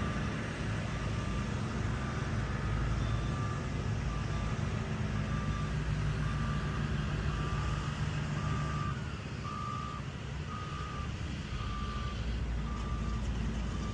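Toyota FJ Cruiser's 4.0-litre V6 running steadily, with a short, high electronic warning beep repeating about once a second.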